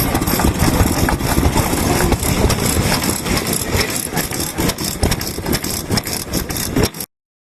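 Vintage Japanese stationary kerosene engine running, a dense, irregular stream of exhaust pops and mechanical knocks. The sound cuts off abruptly about seven seconds in.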